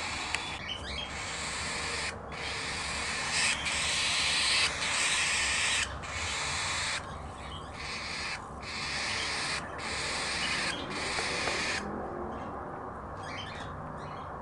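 Cockatiel chicks giving harsh, raspy begging calls: long hissing stretches broken by brief pauses. They drop away about twelve seconds in, leaving fainter short chirps.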